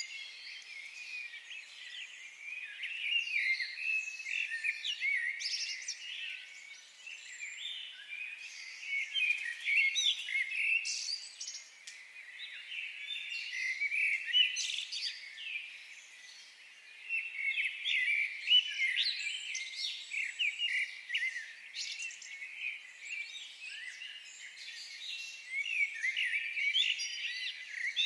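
A chorus of many songbirds singing and chirping at once, dense overlapping chirps and trills that swell and ebb every few seconds.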